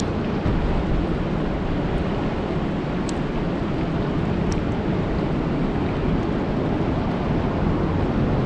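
Steady rain falling on a lake: a continuous even rushing hiss, heaviest in the low end, with a few faint sharp ticks.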